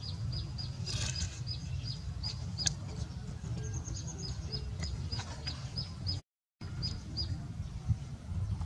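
A bird repeating a short high chirp about three times a second, with a brief fast higher trill about three and a half seconds in, over a low steady rumble. A single sharp click comes near the three-second mark, and the sound cuts out for a moment just after six seconds.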